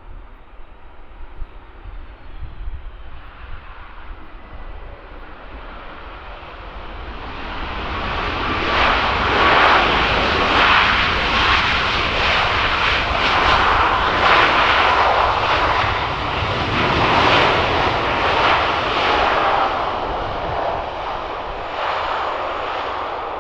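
Jet engines of a landing Boeing 737 MAX 8 with CFM LEAP-1B turbofans, swelling in a rising rush from about seven seconds in, loudest for about ten seconds as it passes, then slowly fading.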